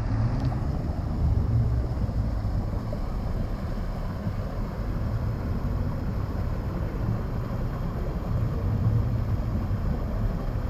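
River ferry under way: a steady low engine rumble with rushing water, and wind buffeting the microphone.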